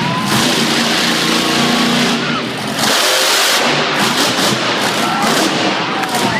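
The Ghost Rider, a 1965 Ford Mustang Fastback exhibition car, running loud and hard: a steady engine note for the first couple of seconds gives way to a dense rushing roar of full power.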